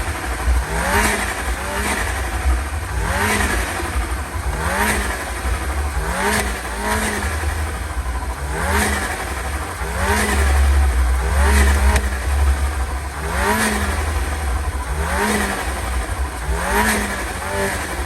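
A tuned car engine revved in short blips, about once a second, each rev rising quickly in pitch, over a deep, steady exhaust rumble.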